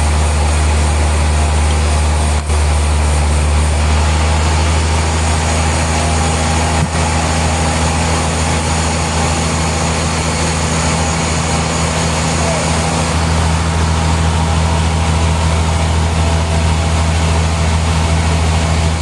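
Sawmill machinery running with a loud, steady low hum under a constant rushing noise, broken by two very brief dips about two and a half and seven seconds in.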